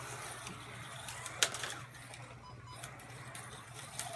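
Carrera Digital 132 slot cars running on the plastic track, their small electric motors whirring over a steady low hum, with one sharp click about a second and a half in.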